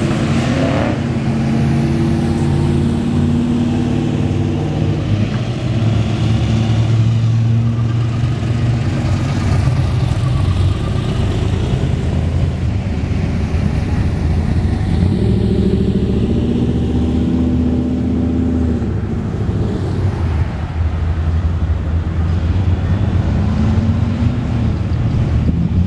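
Classic cars driving slowly past one after another in a cruise. Their engines run with a low note that swells and fades and shifts in pitch as each car goes by.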